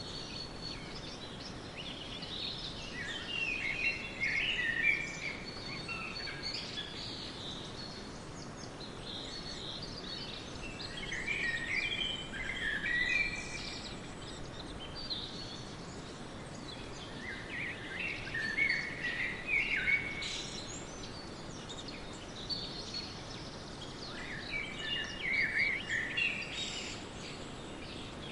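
Songbirds singing in short bursts of chirping phrases that come back roughly every six to seven seconds, over a steady background hiss of outdoor ambience.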